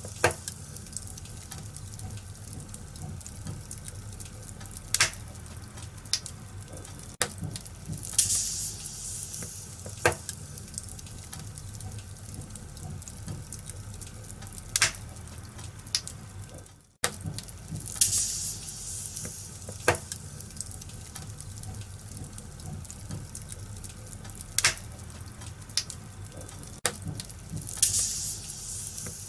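Wood fire crackling in a fireplace: a steady hiss with sharp pops every few seconds and louder flurries of crackle about every ten seconds. The sound dips briefly about two-thirds of the way through.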